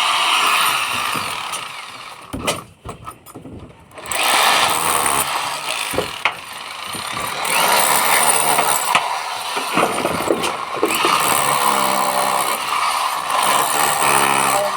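Hammer drill running under load, a loud dense rattling noise; it drops off about two and a half seconds in, with a few knocks, and starts up again a second and a half later.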